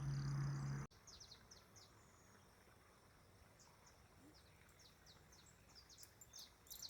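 Faint high chirps of small birds, short descending notes coming every so often and growing more frequent near the end. A low hum and hiss cuts off abruptly about a second in.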